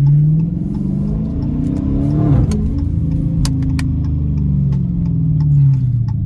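Straight-piped Dodge Challenger R/T's 5.7 Hemi V8 exhaust (resonator and mid-muffler deleted) accelerating: the engine note climbs, drops sharply at an upshift about two seconds in with a few sharp pops, climbs again and eases off near the end.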